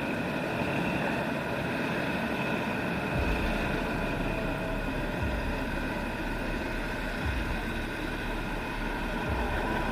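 Vehicle engines running steadily in slow traffic, with a deeper low rumble joining about three seconds in.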